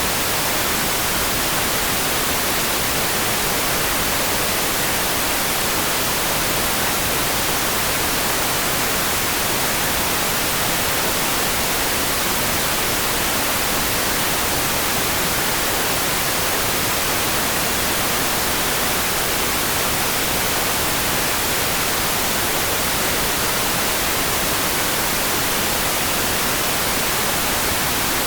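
Steady, even hiss of heavy rain, so uniform that it sounds close to white noise, with no single drops, drips or thunder standing out.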